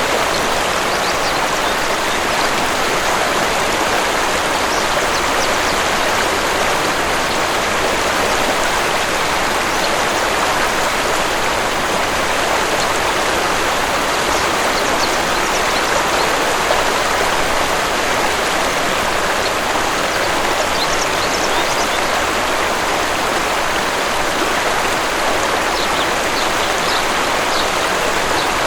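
Waterfall rushing in a steady, even stream of water noise, with faint, brief high bird chirps now and then, a few clustered about two-thirds of the way in and near the end.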